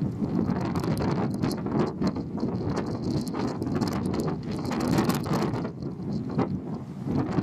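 Wind gusting against the microphone over the low rumble of a car ferry under way.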